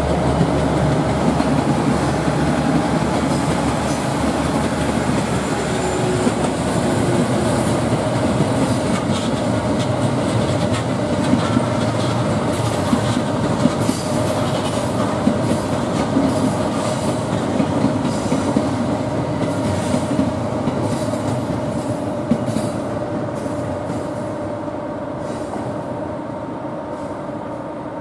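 Electric trains running slowly on the track: the EF64 electric locomotive and a commuter electric train passing alongside, with a steady running hum and several held tones. Wheels click over rail joints through the middle, and the noise fades over the last few seconds.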